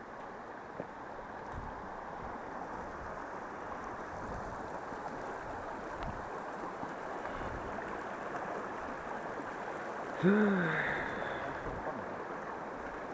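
Steady rush of a flowing mountain stream. About ten seconds in, a short loud voice call, rising then falling in pitch, cuts in over the water.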